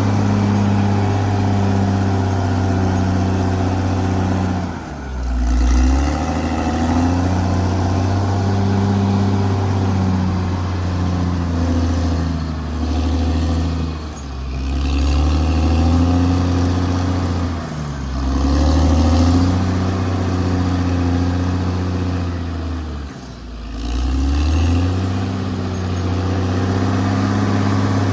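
Caterpillar D6R XL bulldozer's diesel engine running. Its note drops and picks back up four times.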